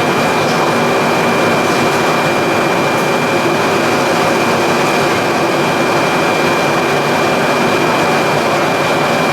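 PE and calcium carbonate pelletizing line machinery running steadily: a loud, even mechanical noise with a steady high whine on top.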